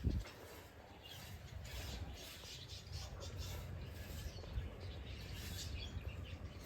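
Birds chirping with many short, quick calls over a low rumble, with a short low thump right at the start.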